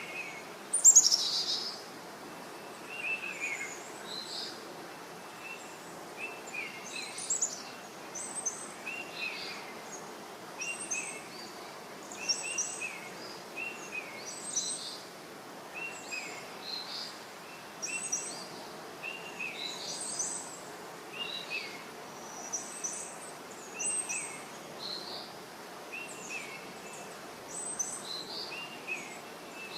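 Birds chirping over a steady background hiss. Short chirps come one every second or two, and the loudest is about a second in.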